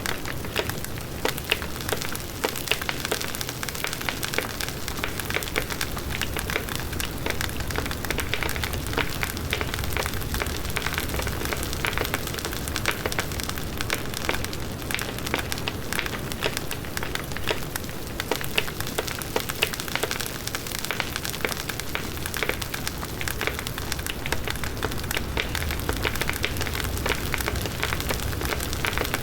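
Large wood bonfire burning steadily: a constant rush of flames with dense, irregular crackling and popping of the burning wood.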